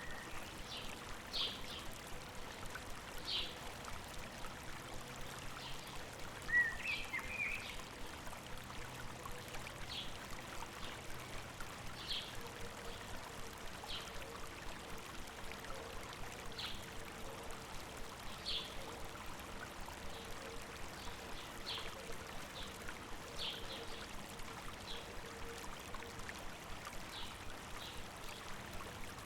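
A river or stream running steadily, with a bird giving short high chirps every second or two and a brief warbled phrase about seven seconds in.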